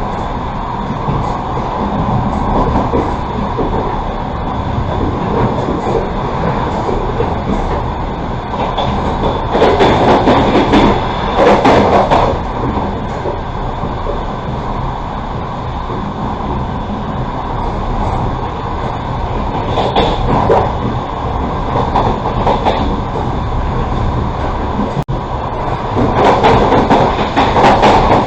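Passenger train carriage running along the track, a steady rumble of wheels on rail with louder surges of rattling several times. Heard from inside the carriage at an open window.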